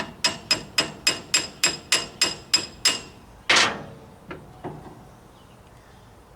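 Hammer striking metal in a quick run of about eleven even, ringing blows while driving a part into a skid steer hydraulic cylinder. A single heavier blow follows, then two light taps.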